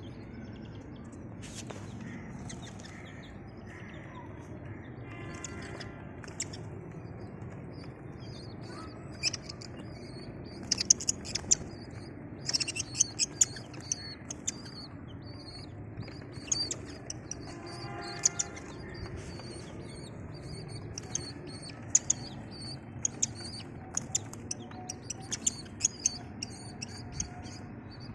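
Desi baby chicks peeping: many short, high chirps, sparse at first and coming thick and fast from about nine seconds in, over a steady low hum.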